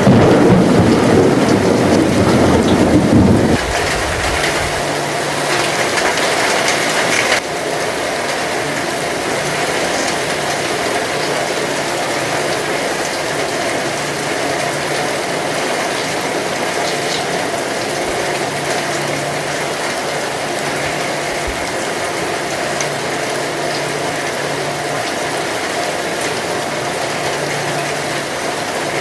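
Heavy rain falling steadily. A low rumble of thunder fills the first few seconds and stops about three and a half seconds in; the rain steps down a little in level about seven seconds in.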